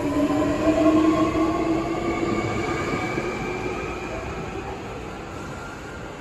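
Maroon Hankyu electric train pulling out of the station: its traction motors whine in several tones that climb slowly in pitch as it gathers speed, over the rumble of wheels on rail. The sound is loudest about a second in, then fades as the train draws away.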